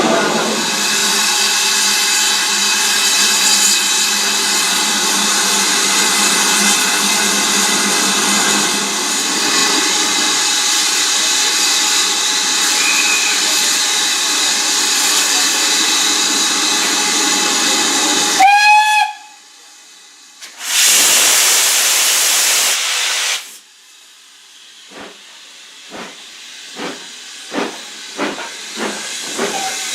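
Steam locomotive blowing off steam with a loud, steady hiss. About two-thirds of the way through comes a short whistle blast that drops in pitch, then a burst of hissing steam. After that come exhaust chuffs that quicken as the locomotive pulls away.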